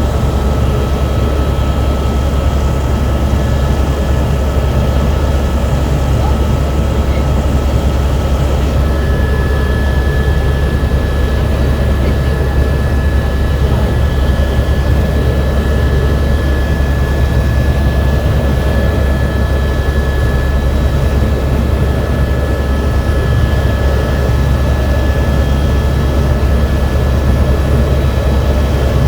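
Helicopter in flight heard from the cabin: a loud, steady low drone of engine and rotor, with a thin steady whine that grows clearer about nine seconds in.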